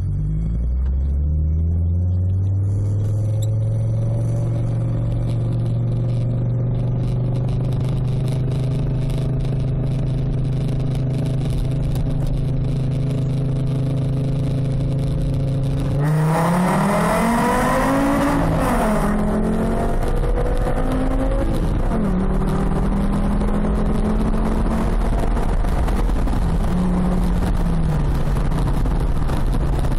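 Fiat Coupé 20v's naturally aspirated five-cylinder engine running through a loud custom stainless exhaust (Cybox line with a SportCat). A steady drone at constant speed, then about halfway through it gets louder under acceleration, the pitch rising for a couple of seconds and falling back, before it settles into a steady drone again.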